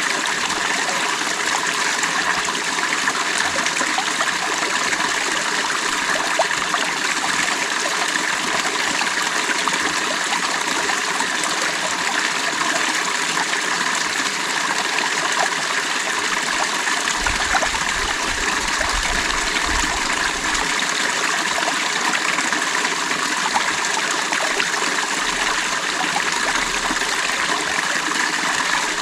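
Creek water running steadily over stones, a continuous rushing and babbling.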